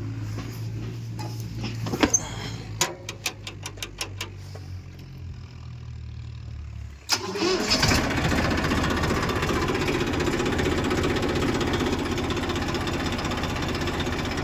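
Low hum with a few sharp clicks, then about halfway through a backhoe loader's diesel engine starts with a sudden burst and a brief rise in pitch, and settles into steady running.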